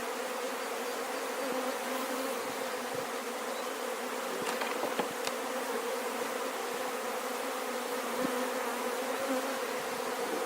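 Swarm of honey bees buzzing in a steady drone around a beehive, stirred up by a hive inspection and not yet settled.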